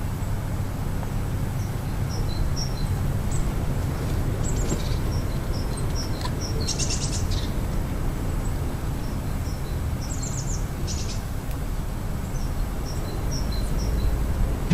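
Small birds chirping: short high-pitched calls repeated in little groups, with two brief buzzy trills, about seven and ten seconds in. Underneath runs a steady low rumble.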